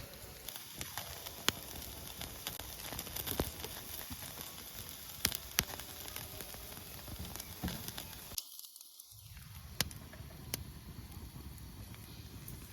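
Wood campfire crackling, with sharp pops every second or so over a steady hiss.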